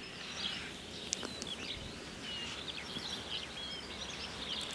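Faint outdoor garden ambience with scattered short bird chirps and whistles throughout.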